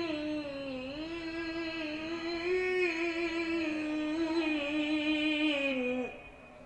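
A single voice holding one long melismatic note of Quran recitation (tilawah), the pitch wavering and sliding slightly, which breaks off about six seconds in.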